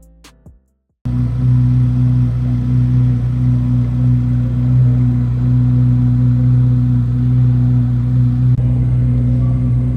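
Last plucked guitar notes fade out, then about a second in a motor vehicle's engine cuts in, running loud and steady at an even pitch. A low pulsing rumble joins it near the end.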